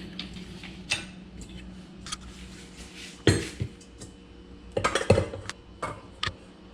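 Spoon and bowl clinking and knocking as butter is put into a mixing bowl: scattered light clicks, with sharper knocks about three and five seconds in.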